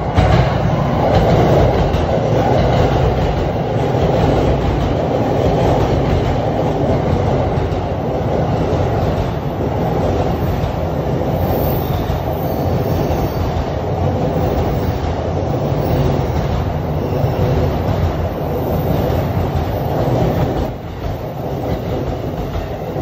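Keihin-Tohoku Line E233-series electric commuter train running through the platform without stopping, with steady wheel and rail noise. A second train is moving on the far track. The noise drops off about 21 seconds in.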